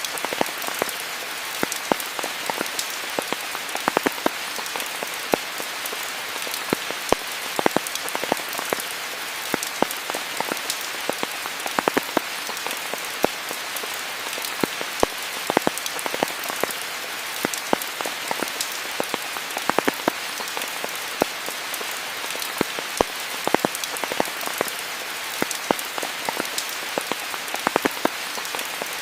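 Steady rain falling, an even hiss with many close, sharp drop impacts pattering irregularly throughout.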